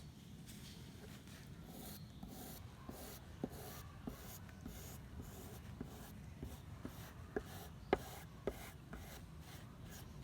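Brisk hand rubbing strokes on rusty metal pliers, about two or three strokes a second, with a few light metal clicks in between.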